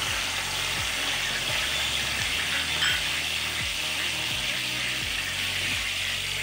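Chopped tomatoes and green chilies sizzling in hot oil in a kadai: a steady frying hiss. Underneath, a low pulse repeats about every three-quarters of a second.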